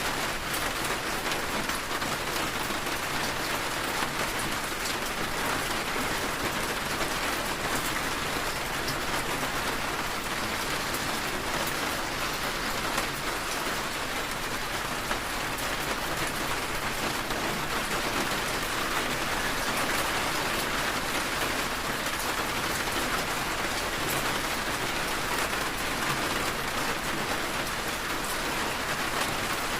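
Steady rain falling, a dense patter of many drops without a break.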